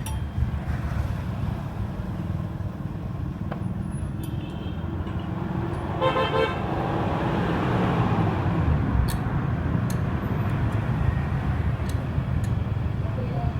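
Road traffic running steadily, with a short horn toot about six seconds in and a vehicle passing close by shortly after. A few faint metallic clicks are heard near the end.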